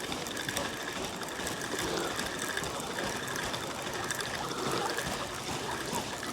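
Fishing reel being cranked to retrieve a bottom rig: a steady mechanical whirr with light clicking, over the rush of flowing river water.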